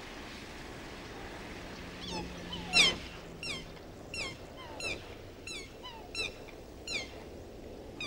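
Birds calling again and again: about ten short calls, each falling in pitch, starting about two seconds in. Under them runs a steady outdoor background noise.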